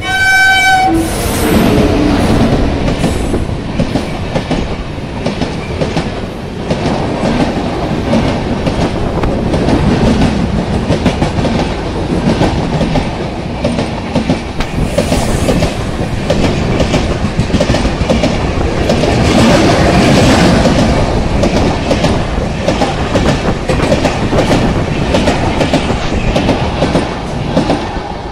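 Indian Railways electric locomotive gives one short horn blast about a second in, then the passenger train passes close by. Its coaches make a loud, continuous rumble with a rapid clickety-clack of wheels over the rail joints.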